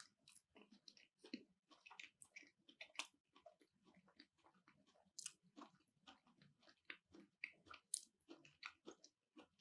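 A person chewing food close to the microphone, heard as a soft, irregular string of short wet clicks and small crunches.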